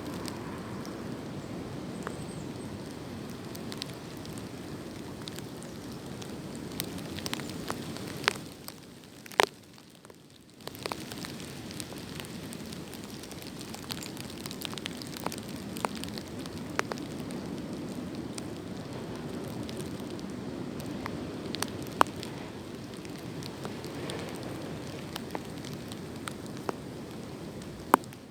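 Wind gusting through tree branches: a rising and falling rush with scattered sharp ticks and crackles of rustling leaves and twigs, easing off briefly about nine seconds in.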